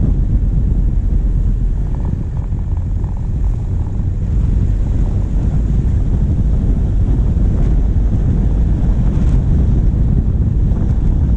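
Diesel engine of a moving vehicle running steadily, heard through a camera mounted on its bonnet, with wind rumbling on the microphone.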